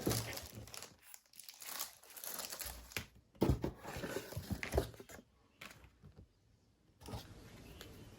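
Packaging crinkling and tearing in irregular bursts with a few knocks as a USB mini fan is unboxed. After a short pause, a steady even hiss comes in near the end.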